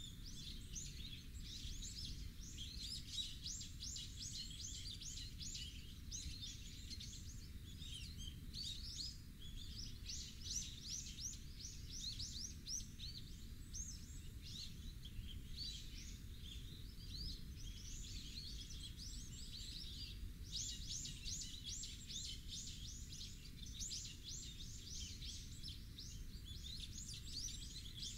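Birds chirping in rapid, high trills that come in repeated bursts throughout, over a steady low rumble.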